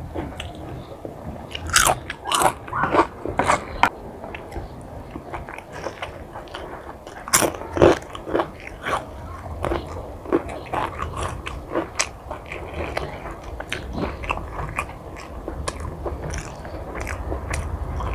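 Close-miked crunching and chewing of a crisp potato chip. The sharpest crunches come in the first few seconds and again about eight seconds in, then ease into softer chewing clicks.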